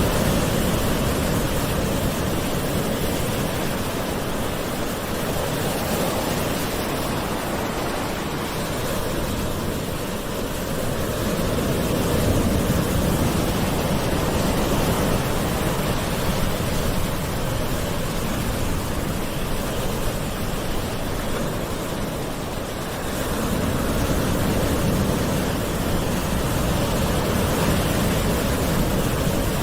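Ocean waves washing on a shore in a continuous rush of surf that slowly swells and eases, louder about twelve seconds in and again in the last few seconds.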